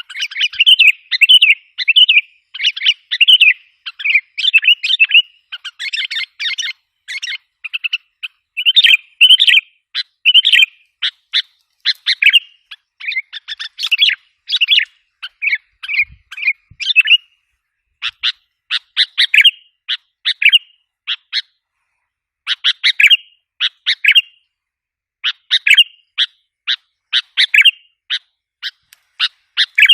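Sooty-headed bulbul (kutilang) lure call: runs of short, bubbly chirping phrases, packed close together at first, then broken into quick clusters of sharp notes with brief gaps. The recording is meant to provoke and draw in wild bulbuls.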